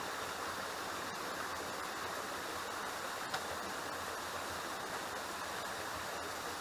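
Waterfall rushing steadily close by, with a single short click or tap about halfway through.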